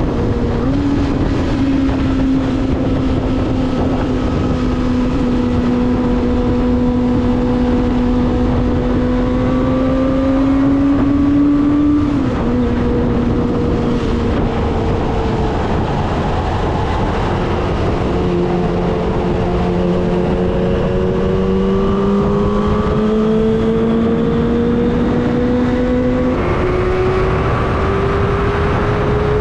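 Kawasaki ZX-25R's 250 cc inline-four engine running under way at mid revs, over a steady rush of wind and road noise. The engine note drops about 12 seconds in and again about 18 seconds in, climbs slowly from there, and steps up again near the end.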